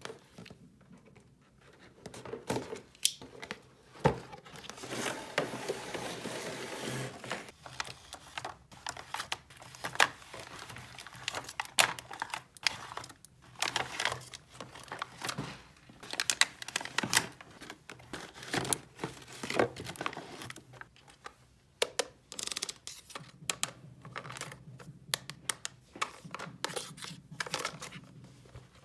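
Plastic packaging crinkling and tearing, with many small sharp clicks of little plastic toy pieces being handled and set down.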